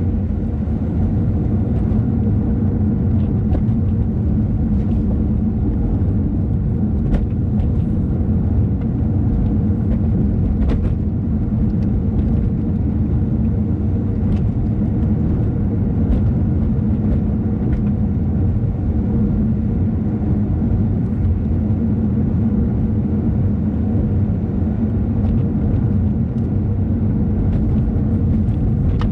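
Car driving along a road: a steady low rumble of engine and tyre noise with a faint hum, and now and then a faint tick.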